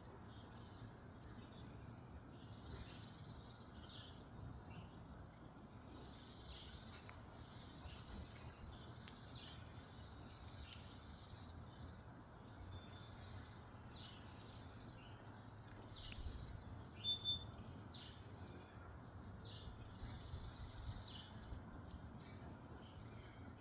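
Faint outdoor background with small birds chirping again and again, short calls scattered throughout, and two brief louder sounds close together about seventeen seconds in.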